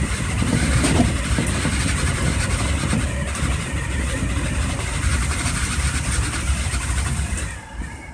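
Electric commuter train running through a station at speed, heard from the driver's cab: a steady rumble of wheels on rail and rushing air, loudest while it passes close alongside another train under the station roof. The noise drops about seven and a half seconds in as the train clears the station.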